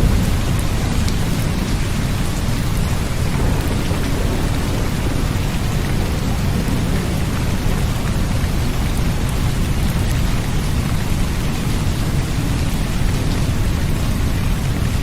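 Steady, unbroken rain noise with a heavy, continuous low rumble underneath.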